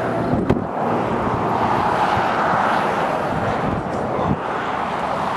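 Wind rushing over the camera microphone: a steady hiss that swells a little near the middle, with a few brief low buffets.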